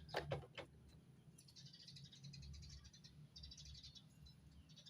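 A few light clicks in the first half-second, then faint, rapid bird chirping for a couple of seconds.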